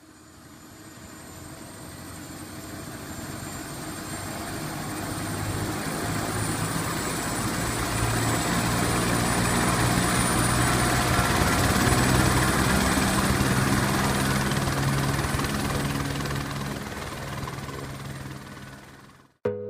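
Helicopter rotor and turbine running, growing steadily louder and then fading away, with a steady high whine over the low beat of the rotor.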